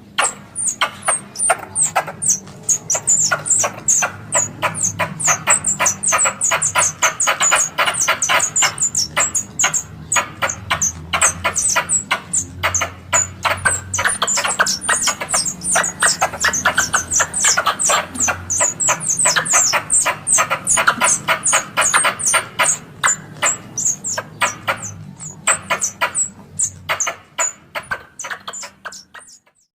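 Squirrel chattering played as a hunting lure call: a fast, even run of sharp, high chips that goes on and on, then cuts off suddenly near the end.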